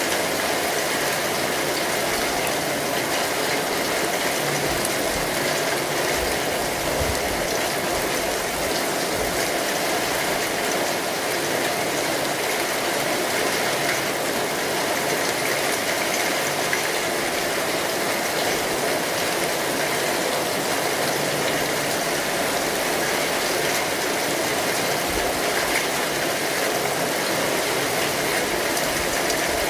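Steady rain falling on an umbrella, an even dense patter with no change in strength.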